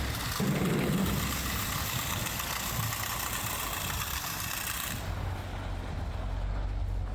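Plow truck's engine running low and steady under an even hiss from the salt spreader throwing salt, which cuts off abruptly about five seconds in.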